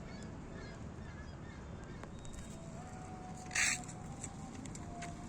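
Steady low rumble of wind and motion noise while riding a bicycle, with one short, sharp hiss about three and a half seconds in.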